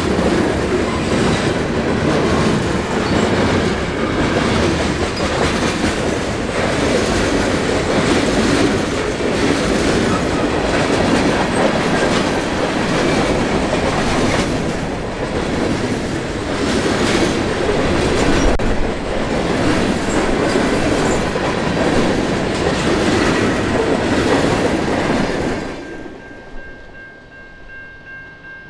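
Freight cars of a Canadian National train rolling past close by, the wheels clicking rhythmically over rail joints, with a thin high wheel squeal for several seconds in the middle. About 26 s in the train sound drops away, leaving a few faint steady high tones.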